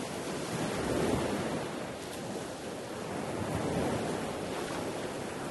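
Sea waves washing, with wind buffeting the microphone: a steady rush that swells about a second in and again near four seconds.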